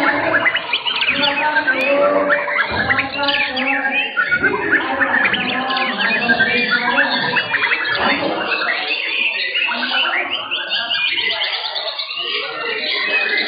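Several white-rumped shamas (murai batu) singing at once, a dense tangle of rapid trills, whistles and chattering phrases, over the murmur of people's voices.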